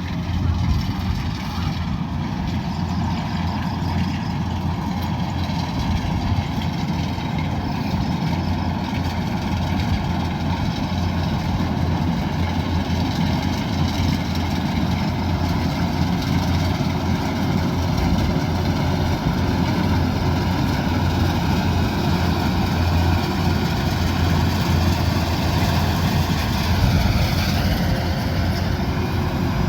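Kubota DC108X combine harvester's diesel engine running steadily, with no break.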